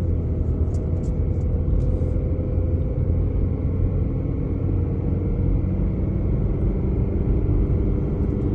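Steady low rumble of a vehicle's engine and tyres on the road, heard from inside the cabin while driving, with a few faint ticks in the first two seconds.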